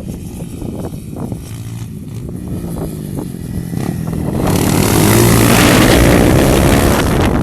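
Single-cylinder four-stroke dirt bike engine running while riding. A loud rushing noise swells in about halfway through and stays until near the end.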